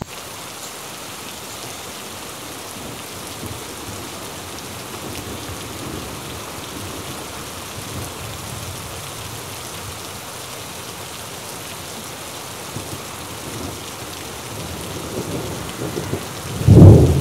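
Steady rain hissing on the vegetation, with a brief loud low rumble near the end.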